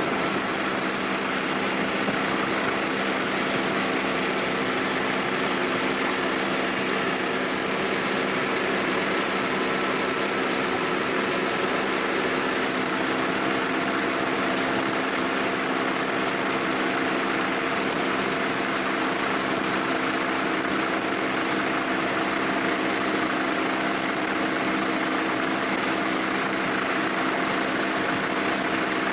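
Steady machinery drone, even in level throughout, with several held tones under a broad hiss.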